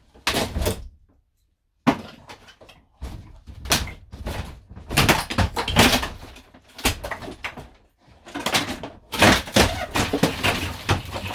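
Wooden interior panelling of an old camper van being forcibly wrenched and ripped out, with a run of irregular loud cracks, bangs and rattles.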